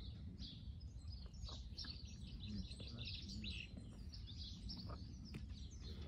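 Small birds chirping and twittering steadily, many short calls overlapping, over a steady low background rumble.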